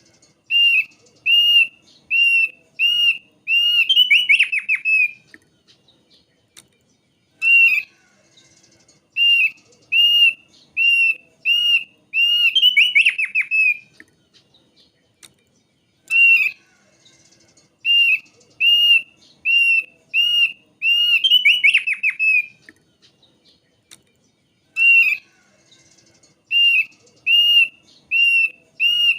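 Thick-billed white-eye singing the same phrase over and over: a run of clear whistled notes about two a second, ending in a fast tumbling trill. The phrase repeats about every eight or nine seconds, with short pauses between.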